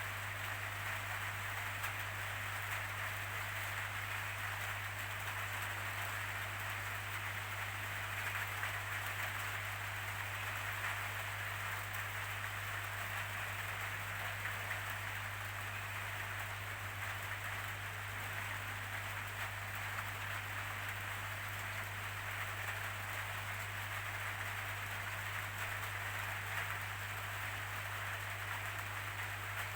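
Steady rainfall, an even hiss of falling rain that does not change, with a steady low hum beneath it.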